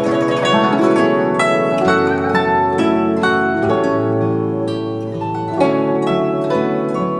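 Chinese light instrumental music: a plucked guzheng melody of quick, bright notes over held lower notes.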